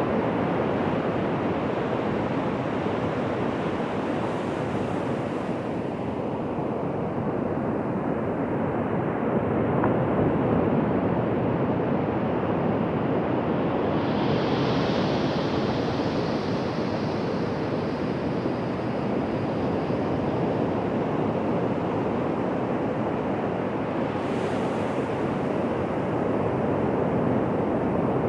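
Ocean surf washing onto a beach: a steady rush of breaking waves that swells and eases gently, with no distinct single crashes.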